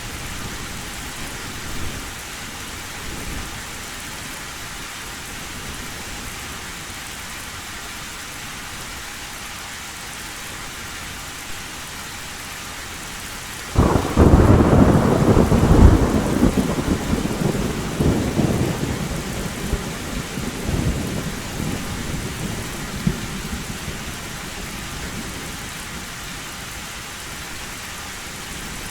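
Steady heavy rain drumming on a metal roof. About halfway through, a sudden loud thunderclap breaks in and rumbles on, fading away over several seconds.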